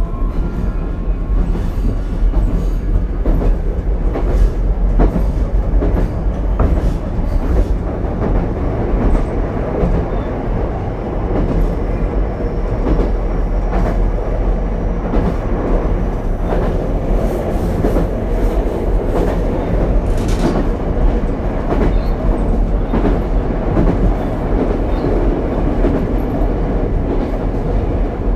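Ichibata Electric Railway 7000-series railcar running at speed, heard from inside the car: a steady low rumble with irregular clicks of the wheels over rail joints.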